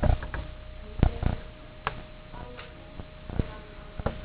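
Irregular light knocks and clicks of small objects being handled, spaced about a second apart, over a faint steady hum.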